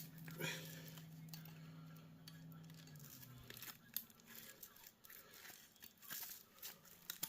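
Faint scraping and clicking of a tool prying small painted copper pieces loose from a heater's parts, with a low steady hum that stops about three seconds in.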